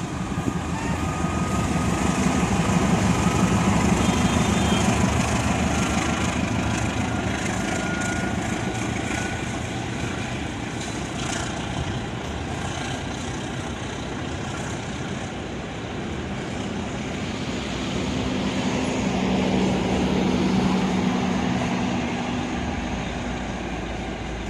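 A CC 206 diesel-electric locomotive passing with a low engine drone, then the steady rumble of its passenger carriages rolling by on the rails. A low drone swells again near the end.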